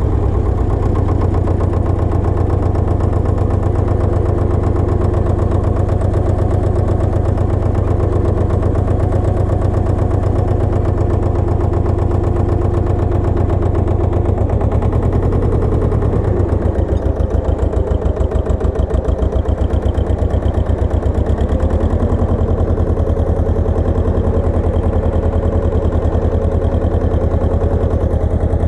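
Pasquali 980 EX tractor engine running steadily. About halfway through, the note changes and throbs for several seconds, then settles again.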